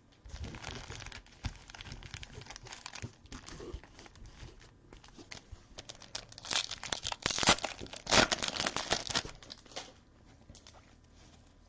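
Trading-card packaging crinkling and tearing as it is opened, with the loudest crackling and ripping about six to nine and a half seconds in, then dying down.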